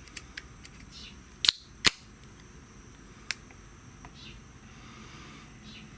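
Burning firewood crackling, with two sharp pops close together about a second and a half in and a fainter one past three seconds, over faint ticks and short hisses.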